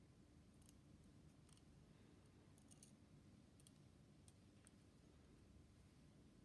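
Near silence: a few faint, irregular small clicks over a low, steady hum.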